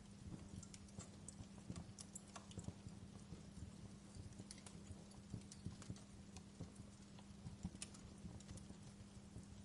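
Wood fire in a fireplace crackling: burning logs give off irregular small snaps and pops, several a second, over a steady low hum.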